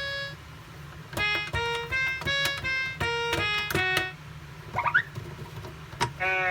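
Electronic toy playing short beeping piano-like notes in quick runs, each note starting with a click. Around five seconds in there are two quick rising chirps.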